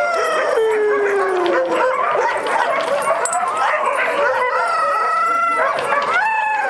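A dog howling and whining in long, high, wavering cries: one slides down in pitch at the start, then several are held steady.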